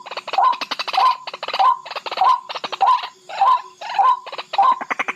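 Barred rail calling over and over: a harsh, rapid rattling phrase with a short pitched note, repeated steadily less than a second apart.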